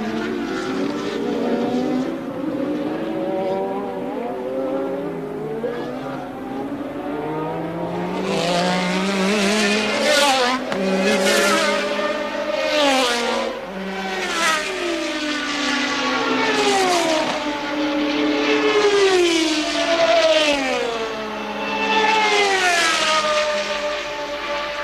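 Formula One cars of 1983 going by at racing speed, their high-revving engine notes sliding down in pitch over and over, several cars close together. The passes come thicker and louder from about a third of the way in.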